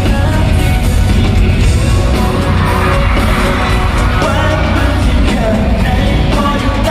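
Loud live pop band playing with a singer, heavy bass throughout, and the crowd yelling along.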